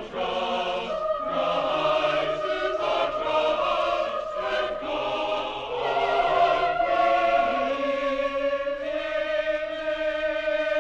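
Choir singing in harmony, moving through several chords and then holding one long chord with vibrato near the end.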